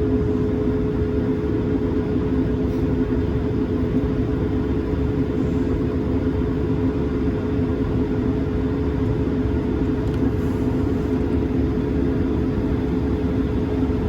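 Steady cabin drone of an Airbus A220-300's Pratt & Whitney PW1500G geared turbofans, heard from inside the cabin, with two constant humming tones over a low rumble.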